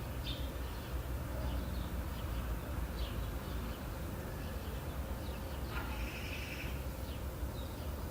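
Outdoor ambience of birds calling, short chirps near the start and about three seconds in, and a longer call around six seconds, over a steady low rumble and hiss.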